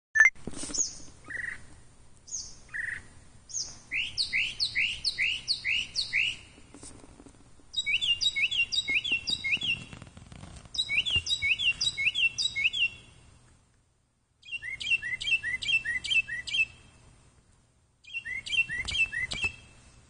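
Bird calling, first with a few single chirps, then in repeated runs of about six to ten quick, sharp chirps, each run lasting about two seconds with short pauses between.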